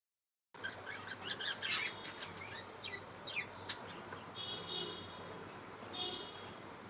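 Five-day-old budgerigar chick cheeping: a rapid run of short, high peeps, then a couple of longer buzzy calls about four and six seconds in.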